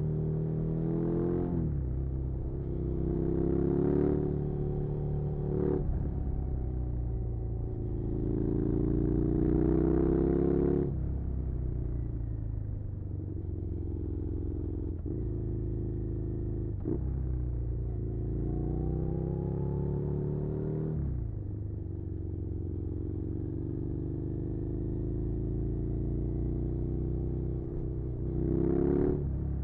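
Suzuki SV650's 90-degree V-twin engine under way, climbing in pitch under throttle several times. Each climb ends in a sharp drop, with steadier cruising stretches between.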